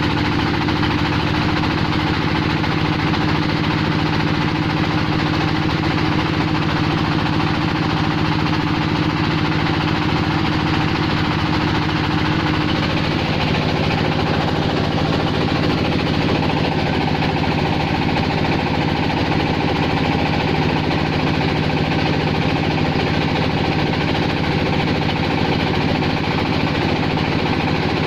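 Clay-processing machine for roof-tile making running steadily, a loud engine-like drone with rapid knocking. Its tone shifts about halfway through.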